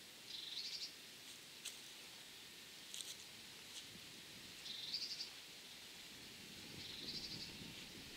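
A small bird singing faintly: three short, high trilled phrases, each rising in pitch and about half a second long, spaced a few seconds apart. A few faint clicks sit over a quiet rural background hiss.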